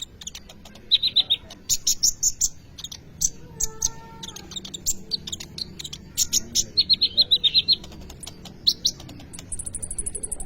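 Kolibri ninja sunbird singing energetically: bursts of rapid, high, sharp chirps and quick twittering trills, with brief pauses between phrases. A thin high steady tone comes in near the end.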